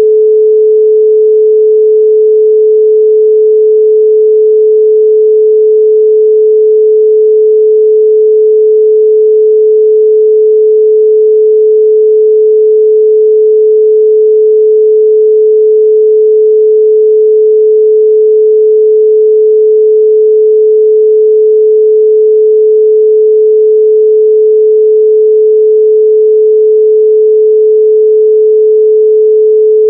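A loud, steady 432 Hz pure sine tone, unchanging in pitch and level.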